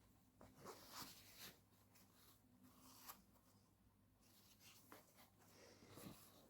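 Near silence with faint rustling and scratching and a few soft ticks.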